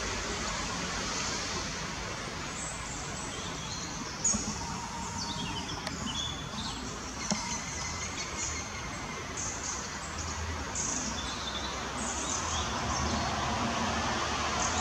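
Outdoor ambience: a steady background hiss and low rumble with scattered short songbird chirps and calls, and a single brief tap about four seconds in.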